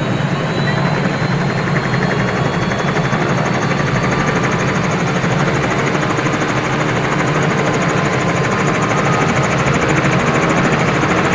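Helicopter running steadily, with a continuous low engine and rotor noise and a fast, even pulsing; it grows slightly louder near the end.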